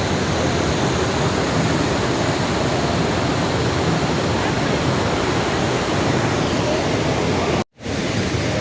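White-water rapids of the River Nile rushing steadily at a waterfall. The sound cuts out abruptly for a split second near the end, then resumes.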